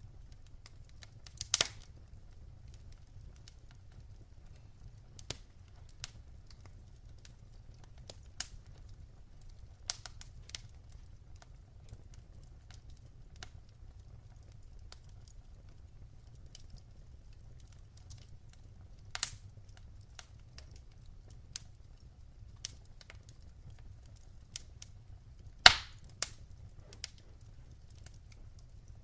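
Wood fire crackling in a fireplace: scattered sharp pops and snaps at irregular intervals, a few louder ones about a second and a half in, near the middle and a few seconds before the end, over a faint low hum.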